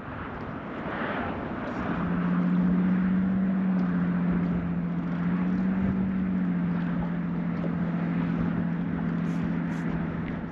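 Electric trolling motor running with a steady hum that starts about two seconds in and shifts slightly in pitch a couple of times, over wind noise.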